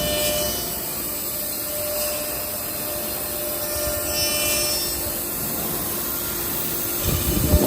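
SUDIAO M1-Pro CNC processing center machining a wooden door panel: the spindle runs with a steady whine over the noise of the cutter working the wood. A short low rumble comes near the end.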